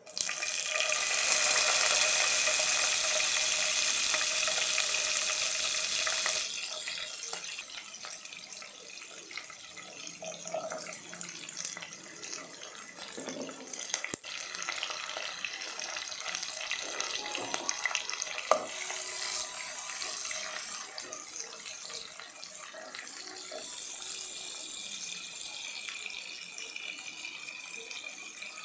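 Green chillies hitting hot oil in a pot and sizzling loudly, the sizzle dropping to a quieter steady frying hiss after about six seconds. A few light knocks are heard mid-way.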